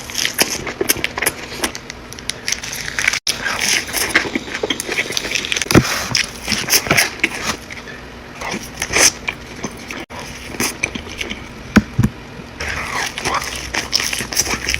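Close-miked mukbang eating: crunchy biting and chewing of food, a dense run of irregular crackly clicks.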